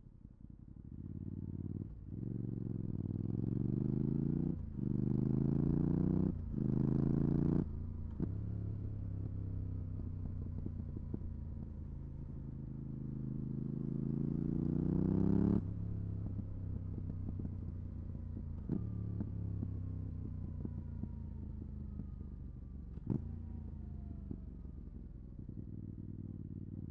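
Yamaha R7's 689 cc parallel-twin engine through a MIVV GP Pro exhaust with dB-killer, accelerating hard through several quick upshifts, then pulling up steadily in a higher gear. About halfway through, the throttle is shut and the revs fall on the overrun, with two short sharp cracks from the exhaust.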